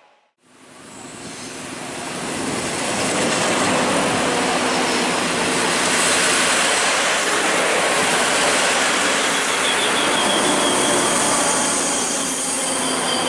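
SA133 diesel railcar train running in along the platform close by, its rolling noise rising over the first few seconds and then holding steady. Near the end a high-pitched wheel or brake squeal comes in as it slows.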